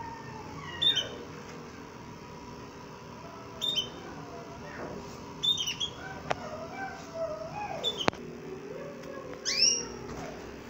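Caged pet bird giving five short, sharp chirps, each a quick falling note, spaced about two seconds apart, with a couple of faint clicks between them.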